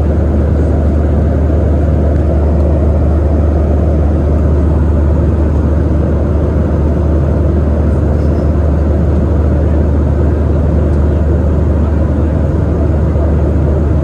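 Steady cabin noise of a Boeing 737-800 in flight: its CFM56-7B turbofan engines and the rushing airflow, heard from inside the cabin as a constant low hum under an even noise, with no change in level.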